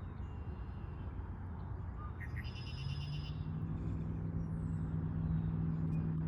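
Low rumble of passing traffic, with a steady engine hum that sets in about three seconds in and grows louder as a vehicle approaches. A bird gives a few brief chirps and a short buzzy call near the middle.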